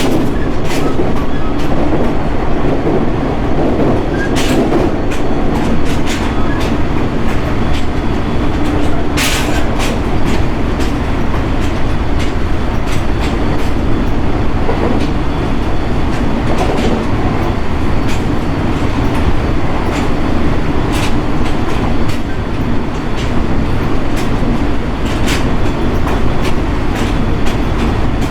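JR East 701 series electric train running at speed, heard from inside the car: a steady rumble of wheels on rail under a constant hum, with a sharp clack from the rails every few seconds.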